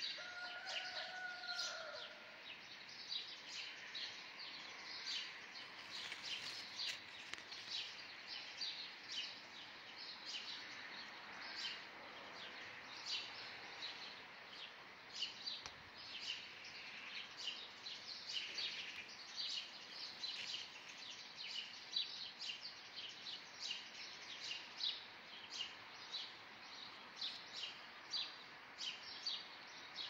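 Small birds chirping steadily in many quick, short calls, a chorus of morning birdsong. A brief, slightly falling held tone sounds in the first two seconds.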